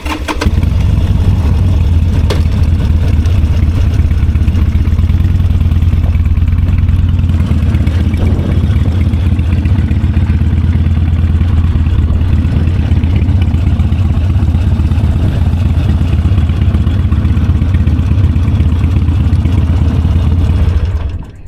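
Motorcycle engine running steadily at low speed, loud and low-pitched close to the microphone, cutting off suddenly near the end.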